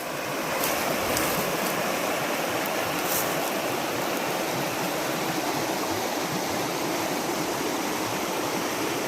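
Canada Creek's water rushing steadily.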